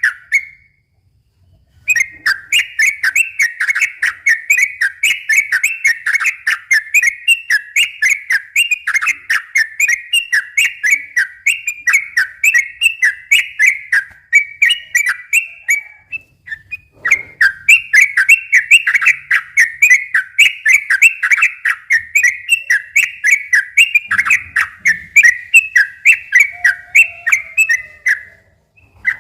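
Yellow-vented bulbul (trucukan) singing a long, rapid run of short chirping notes, about two or three a second, broken by brief pauses about half a second in, around the middle and near the end.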